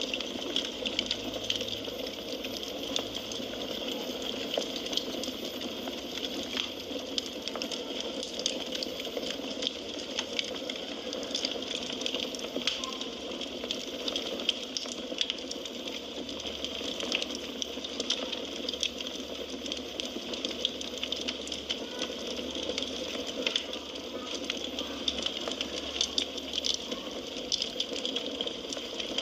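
Wood fire burning in a fireplace: a steady hiss of flames with frequent small crackles and pops at irregular intervals.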